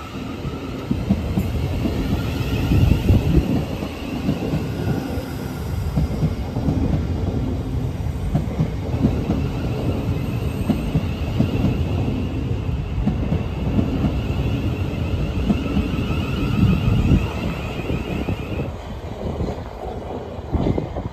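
Thameslink Class 700 electric multiple-unit train running along the platform: wheels rumbling on the rails, with a high whine above the rumble that stops near the end.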